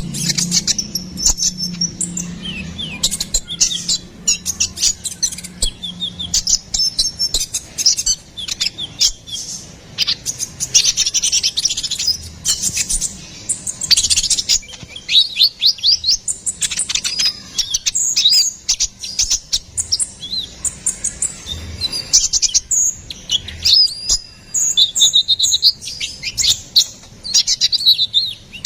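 Konin kolibri ninja, a small sunbird, singing vigorously: a fast stream of high, thin chirps and short twittering trills, broken by brief pauses.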